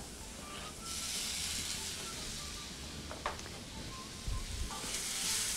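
Sliced mushrooms, onion and diced red bell pepper sizzling in oil in a frying pan over a gas flame. The hiss comes in about a second in and grows stronger near the end, with a single click a little past the middle.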